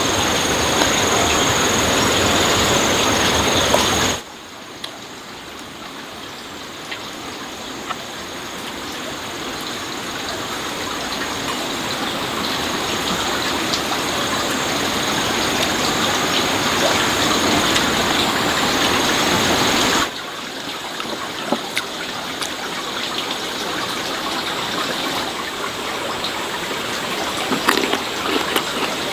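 Steady rushing noise like running water, in three stretches joined by abrupt cuts about 4 and 20 seconds in, with a thin high steady tone over the first two and a few scattered clicks.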